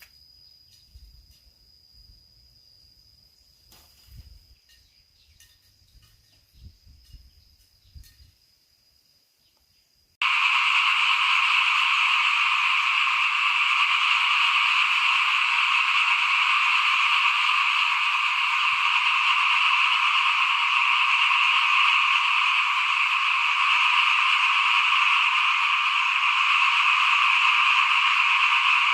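A dense chorus of many small paddy frogs calling together, loud and unbroken, which starts abruptly about ten seconds in. Before it there is only a faint steady high trill and a few soft bumps.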